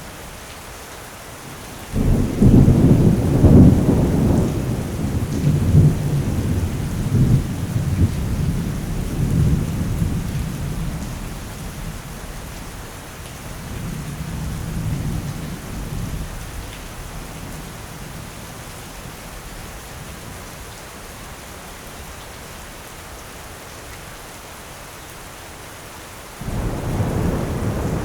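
Steady rain with thunder: a sudden low clap about two seconds in that rumbles on in swells and dies away over some fifteen seconds, then another rumble of thunder breaking in suddenly near the end.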